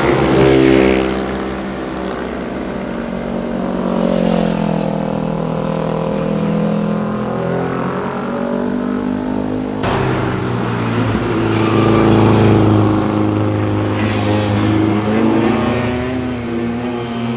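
Sport motorcycle engines revving past, the exhaust note rising and falling through the gears. The sound changes abruptly about ten seconds in as another bike takes over.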